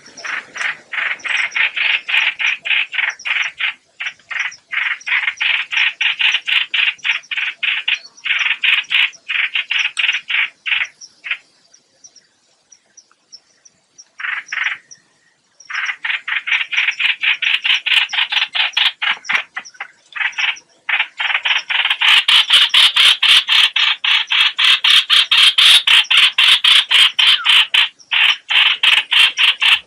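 Recorded call of the 'hoạch hoạch' bird played as a trapping lure: rapid, harsh, croaking notes repeated about four times a second. The calling pauses about halfway, then comes back faster and louder in the last third.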